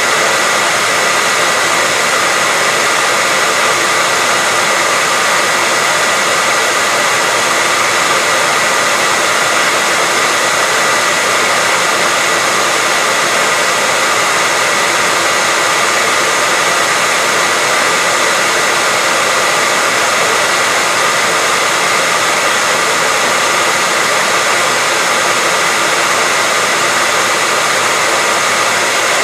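Hair dryer running continuously as white noise: a steady airy rush with a constant high whine, unchanging throughout.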